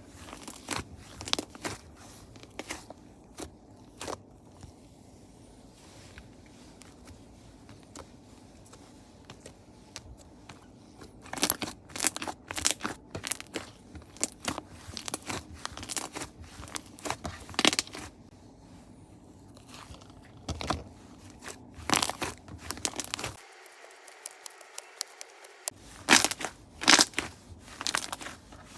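Slime being squeezed and poked by hand, giving irregular crackling and popping clicks: sparse at first, then in dense bursts.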